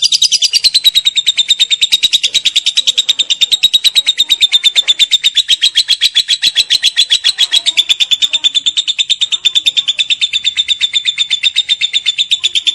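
Lovebird singing its long 'ngekek' song: a loud, fast, unbroken run of shrill chattering notes, many to the second, held without a pause.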